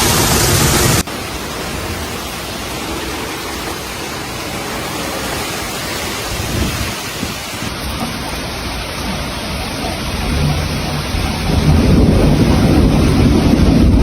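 Heavy rain falling during a thunderstorm, with thunder rumbling and growing louder over the last few seconds.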